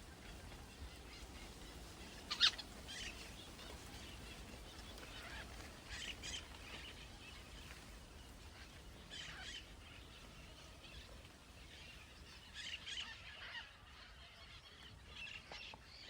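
Birds calling, with separate calls every three or four seconds; the loudest comes about two seconds in.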